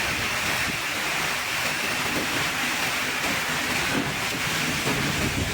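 Steady rush of a storm: heavy rain and wind.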